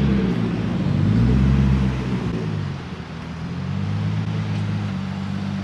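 Car engine revving once, rising and falling in pitch, then settling into a steady low idle about halfway through.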